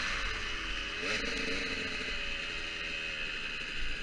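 Motocross dirt bike engine easing off, with a short blip of revs about a second in, then running lower as it fades somewhat, over a steady hiss.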